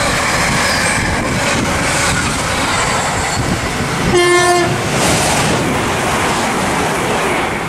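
Container freight train wagons rolling past with a continuous rumble and clatter on the rails. About four seconds in, a train horn sounds one short, single-note toot, and near the end a class 350 Desiro electric multiple unit runs past alongside.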